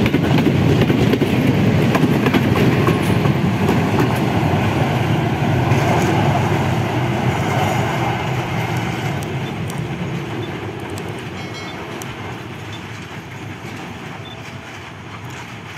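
Passenger train carriages running past on the rails, their rumble fading steadily as the train moves away.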